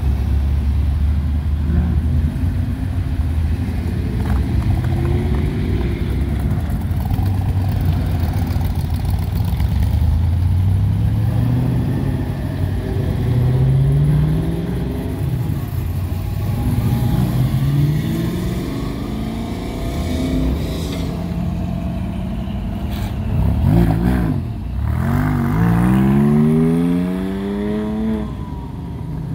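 Classic cars and hot rods driving past one after another at low speed, their engines rumbling and revving as each pulls away. Near the end one engine revs up hard as it accelerates.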